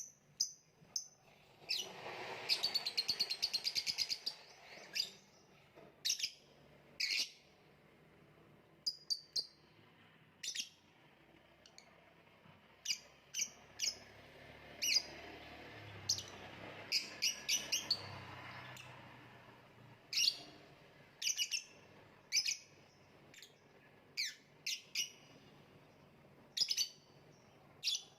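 Lovebird chirping in short, sharp, shrill notes, with a fast rattling trill of chatter about two seconds in and clusters of quick chirps further on.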